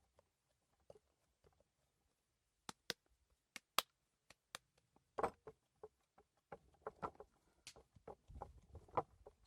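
A scattering of sharp, quiet clicks, followed from about five seconds in by a busier run of light knocks and handling noise.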